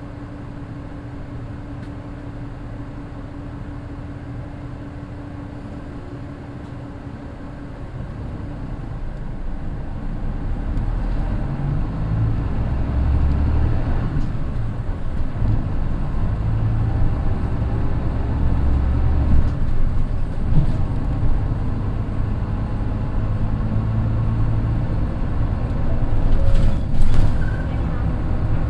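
Mitsubishi Fuso Aero Midi bus's naturally aspirated 6M61 diesel idling steadily, heard from inside the cabin. About eight seconds in the engine note rises as the bus pulls away and accelerates, with steps in the engine sound as the DD5M finger-shift gearbox changes up.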